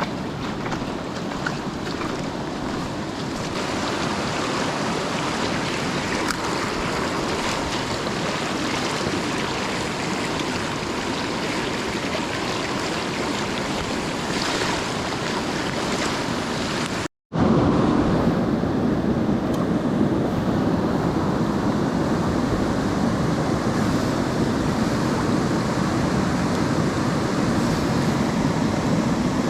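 Rushing water of a mountain stream, a steady noise. About seventeen seconds in it cuts out abruptly for a moment and comes back louder, with more low rumble.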